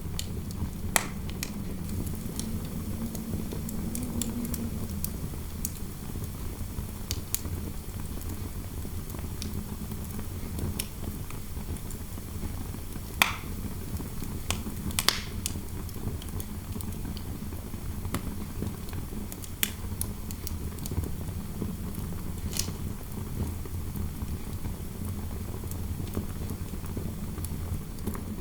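Log fire crackling, with scattered sharp pops, a couple of them louder, over a steady low rumble of wind moving through a room; the wind gives a faint howl in the first few seconds.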